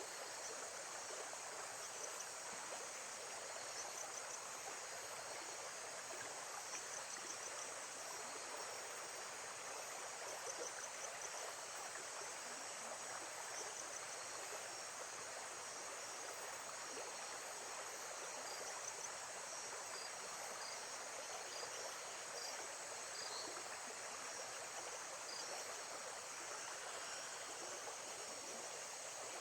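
Lake-side nature ambience: a steady wash of water, with faint, short, high chirps repeating on and off throughout.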